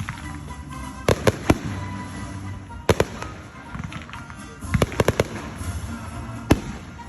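Fireworks going off: sharp bangs at irregular intervals, with a quick cluster of several about five seconds in and crackling between the bursts.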